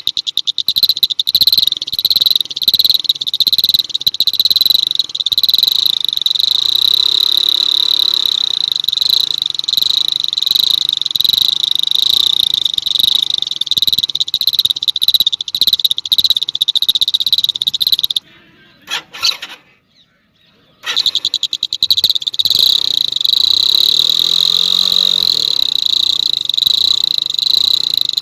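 A high, rapidly pulsing buzz from a horn, sounding steadily. It cuts out abruptly about two-thirds of the way through and starts again about three seconds later.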